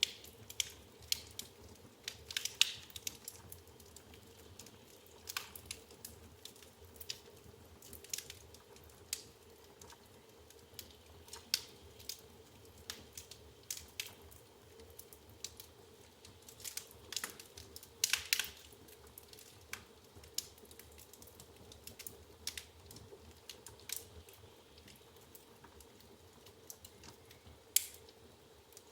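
Wood fire burning in an open fireplace: logs crackling, with irregular sharp pops and snaps, a few louder ones clustered about two and a half seconds in and around seventeen to eighteen seconds in, over a faint low hum.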